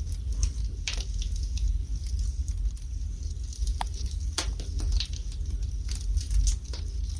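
Wood burning in a fireplace: irregular sharp crackles and pops, several a second at times, over a low steady rumble.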